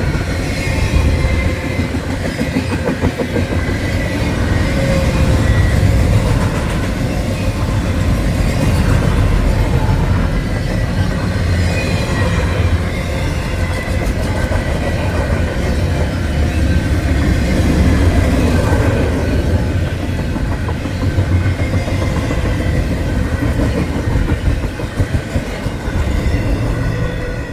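Norfolk Southern freight train's cars rolling past: a loud, steady rumble of steel wheels on the rails, with thin, high, wavering wheel squeals over it.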